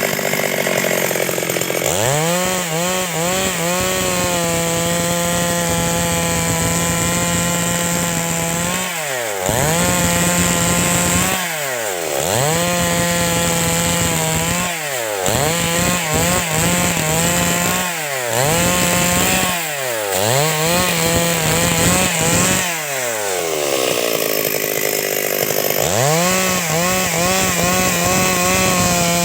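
Stihl MS 382 two-stroke chainsaw running at full throttle through wood, holding a steady high pitch. Its engine note drops sharply and climbs back about six times as the throttle is let off and squeezed again. Near the end it falls toward idle for a couple of seconds, then revs up again.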